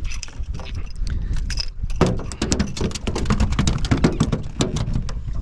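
Quick irregular clicking and rattling as a just-landed speckled trout and its popping-cork rig are handled on the boat, over a steady low rumble.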